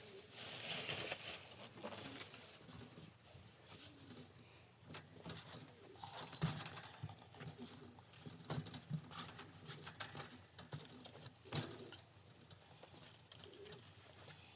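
Faint scattered rustling and clicking of a guinea pig cage and its bedding being handled, with a brief hiss near the start and a few soft low guinea pig calls.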